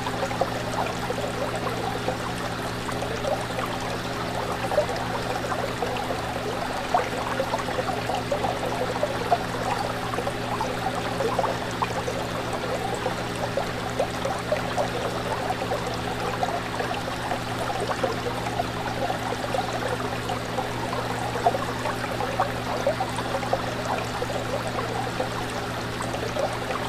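Fish tank water bubbling and trickling steadily, over a constant low hum.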